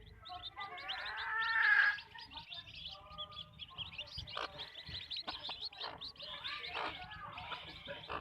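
Backyard chickens clucking over constant high chirping and peeping. One drawn-out call builds to the loudest point about two seconds in, followed by short clucks.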